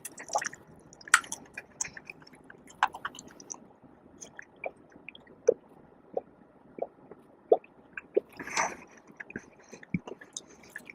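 A person chewing food close to the microphone: soft wet mouth clicks and smacks at irregular moments, with one longer, louder chew near the end.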